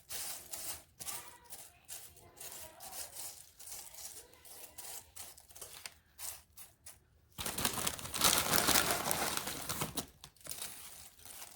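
Crinkling plastic corn chip bag and Fritos corn chips being poured and spread over the pastry, in scattered crackles with a louder, denser stretch of rustling for a couple of seconds about halfway through.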